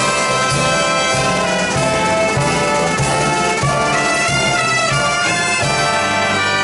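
Brass band playing a patriotic tune, trumpets and trombones holding full chords that shift every second or so.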